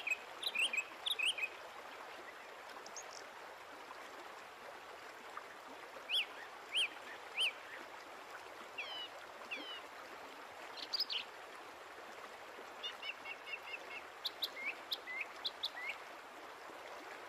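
Birds chirping in short, quick calls that come in scattered clusters, with a brief fast trill later on, over a steady background hiss.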